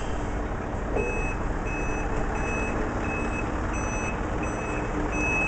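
Truck reversing alarm beeping at an even pace, about three beeps every two seconds, starting about a second in, over the low rumble of a heavy truck's engine.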